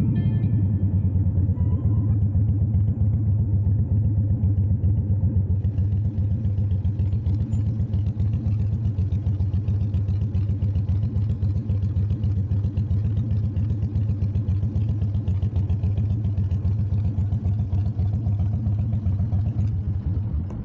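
Harley-Davidson motorcycle's V-twin engine running with a steady low throb as the bike rolls slowly into a parking lot, then idling; it cuts off at the very end.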